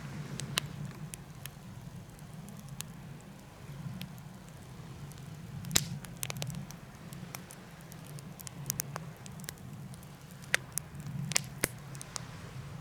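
Wood fire burning in a DIY fire pit: irregular crackles and sharp pops, the loudest about halfway through and a cluster a little before the end, over a steady low hum.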